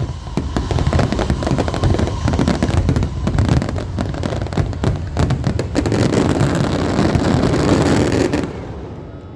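Aerial fireworks going off in quick succession, a dense crackle of many bursts with low booms underneath. The barrage dies away near the end.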